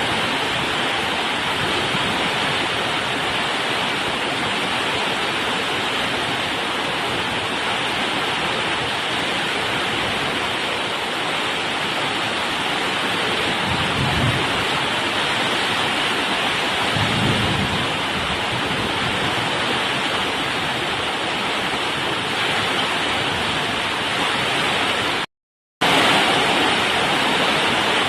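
Heavy rain pouring down steadily in a summer storm, with two short low rumbles about halfway through. The sound cuts out for half a second near the end.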